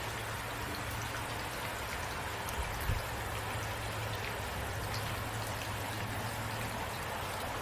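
Steady rain with scattered droplet ticks and a low steady rumble underneath; a brief soft thump about three seconds in.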